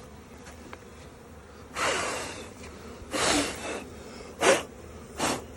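A person blowing four short puffs of breath, a second or so apart, the way a beekeeper blows bees off a hive edge before setting the lid down.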